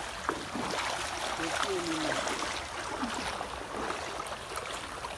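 Steady rushing of running water, with faint voices in the background.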